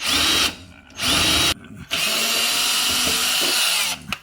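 Power drill running in three bursts, two short ones and then one of about two seconds, its motor whine rising as each starts; it is being used to back out the dishwasher's mounting screws.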